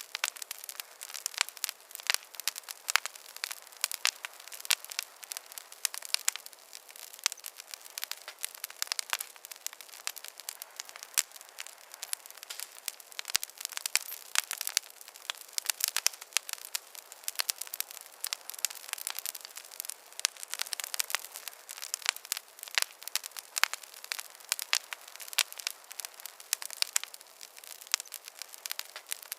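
Wood fire crackling in a fireplace: a dense, irregular run of small sharp pops and snaps over a faint hiss, with no low rumble.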